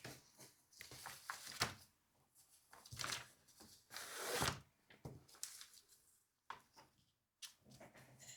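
Paper and craft materials being handled for a collage: irregular rustles, short scrapes and light clicks, some lasting under a second and a longer one about four seconds in.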